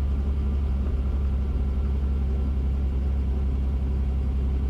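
Robinson R44 helicopter's engine and rotor drone, heard steady and low through the cockpit intercom with its volume turned down.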